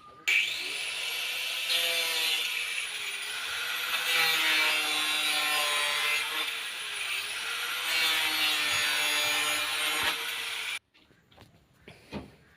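A saw cutting through a 4-inch drain pipe, a continuous rasping cut with a pitch that wavers up and down, stopping abruptly about eleven seconds in.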